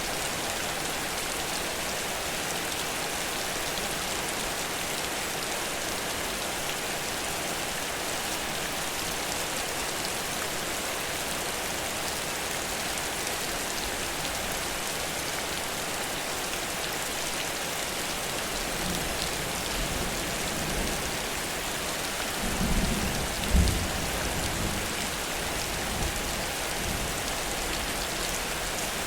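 Heavy rain falling steadily, with low rumbles of thunder in the second half, the loudest about two-thirds of the way in.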